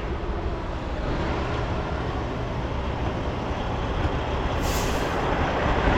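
Semi truck's diesel engine idling steadily, with a short hiss of air about three-quarters of the way through.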